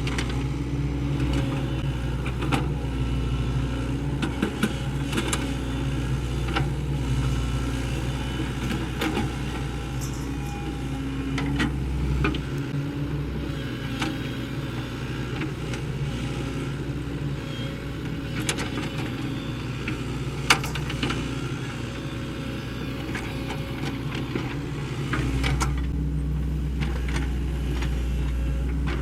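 Sany SY75C excavator's diesel engine running steadily, with scattered clanks and knocks as it works. The engine eases off about twelve seconds in and picks up again near the end, and one sharp knock stands out about two-thirds of the way through.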